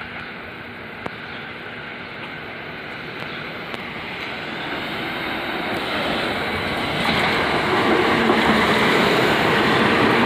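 A train approaching, its rumble growing steadily louder and fuller over several seconds.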